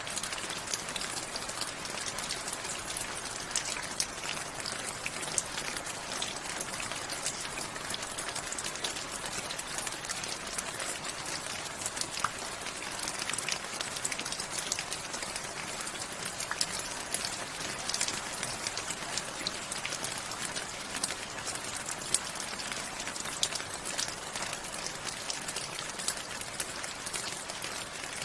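Steady rain falling, a dense hiss with many separate drops ticking on a hard surface.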